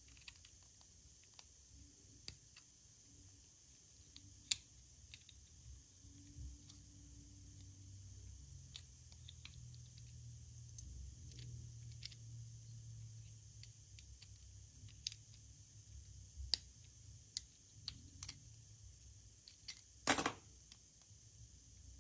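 Scattered light clicks and taps of small objects being handled, with a brief louder crinkle about twenty seconds in, over a steady faint hiss and low hum.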